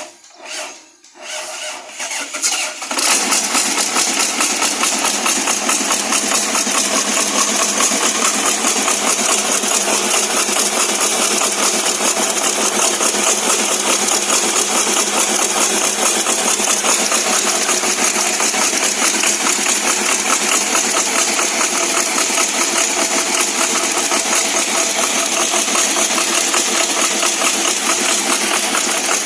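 Six-cylinder generator engine being started: a few seconds of short cranking pulses, then it catches about three seconds in and runs steadily.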